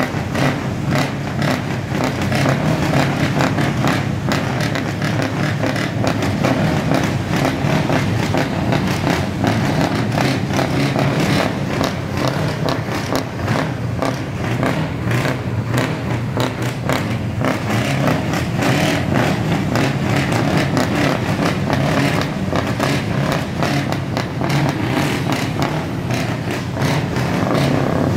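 Scania V8 truck diesel engine running loud and steady through its exhaust, with a rapid rough pulsing and no big rises or falls in revs.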